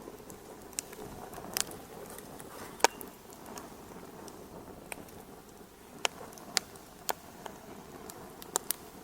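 Fireplace wood fire crackling: irregular sharp pops, the loudest about three seconds in, over a soft steady hiss.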